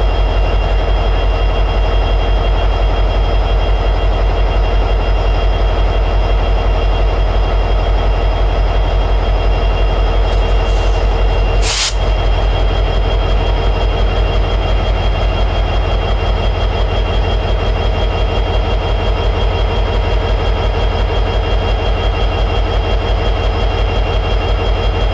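EMD 710G3B two-stroke diesel prime mover of an SD60E locomotive running steadily in high idle, a constant pulsing rumble. A brief sharp burst cuts through about twelve seconds in.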